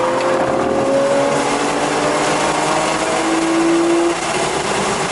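Porsche 911 GTS (991.1) 3.8-litre flat-six pulling hard under load from inside the cabin, its note climbing slowly with road speed. About four seconds in the note and loudness step down as the driver shifts or lifts off.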